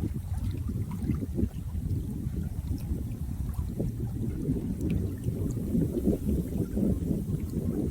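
Running water: a steady, low, churning flow with a few faint ticks of small splashes.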